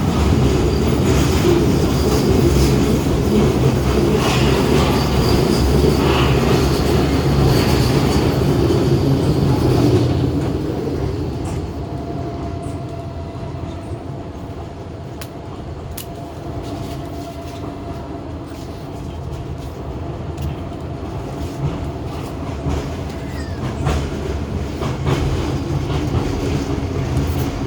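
Docklands Light Railway train running along the track: a loud rumble of wheels on rail for about the first ten seconds, then quieter running with a steady motor whine.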